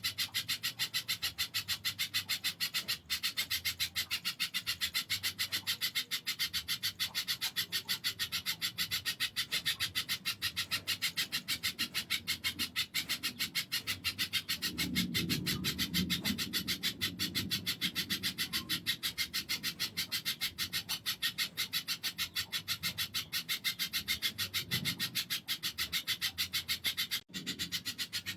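Spiderhunter (pijantung) calling in a fast, unbroken rattle of dry, high clicks, many to the second and very even. A low murmur rises briefly about halfway through.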